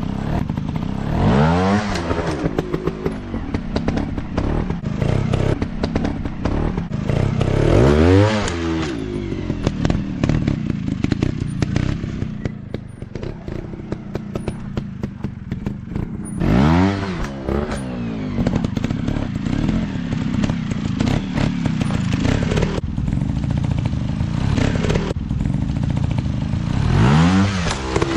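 Dirt bike engine running at a burbling idle, revved up and let back down four times, about every eight seconds, with clattering and scraping between the revs.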